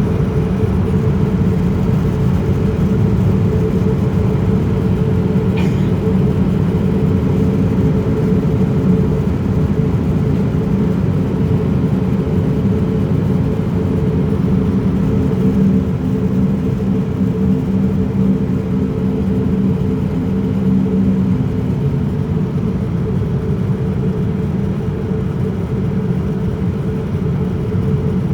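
Steady in-flight cabin drone of a Boeing 787-9 airliner: engine and airflow noise, low and even. A low hum sits over the drone through the middle and fades out about three-quarters of the way through.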